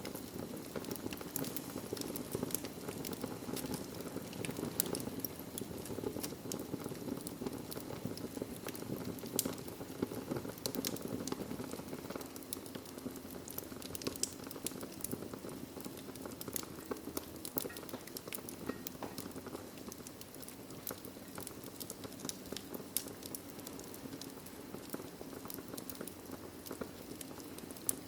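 Wood fire burning in a fireplace: a steady low rushing bed with frequent small, irregular crackles and pops.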